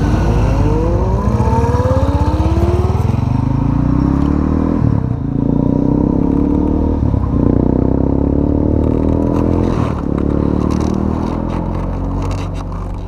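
Sport motorcycle engine accelerating hard, its pitch rising, then shifting up through the gears with brief dips at about five, seven and ten seconds. Some crackling near the end.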